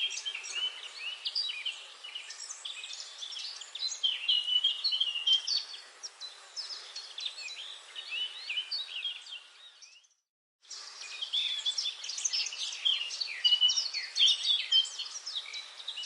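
Many birds chirping and singing at once, a dense chorus of short high calls and trills. The sound cuts out completely for about half a second about ten seconds in.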